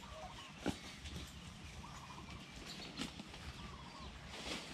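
Faint, short wavering bird calls, several times, over a low wind rumble, with a few sharp knocks, the loudest less than a second in.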